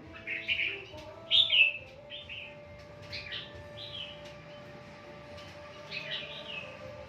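Birds chirping in short, falling calls that come every second or so, loudest about a second and a half in.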